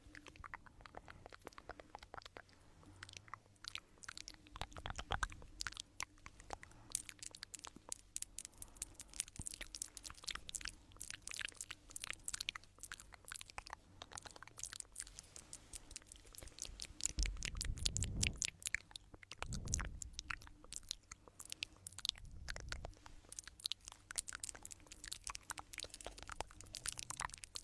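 Close-miked ASMR trigger sound: dense, rapid crackling and clicking, with a few deeper thumps about two-thirds of the way through.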